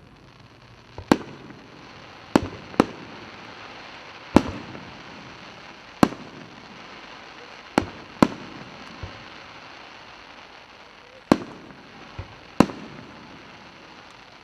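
Fireworks display: aerial shells bursting with sharp bangs, about nine at uneven intervals, some in quick pairs, over a steady hiss.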